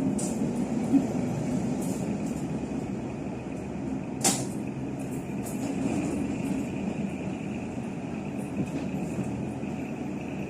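Taiwan Railway local train 3513 running along the line: a steady rumble and hiss of the moving train, with one sharp clink about four seconds in.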